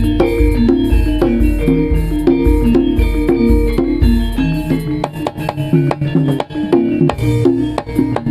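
Javanese gamelan playing a jaranan dance accompaniment: metallophones ring out a repeating melody over steady kendang drum strokes. The deep bass tones drop away about five seconds in, leaving the drum strokes more exposed.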